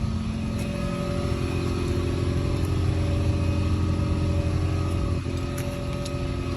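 A motor vehicle's engine running steadily, a low drone that dips briefly about five seconds in.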